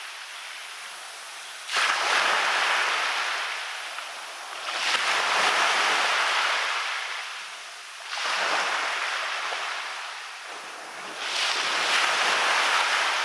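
Waves breaking on a beach and washing back, four surges about three seconds apart. The first surge comes in suddenly.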